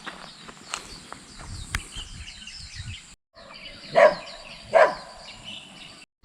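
Birds chirping with many short, high, falling notes, broken by a brief dropout, then two louder short calls about four and five seconds in.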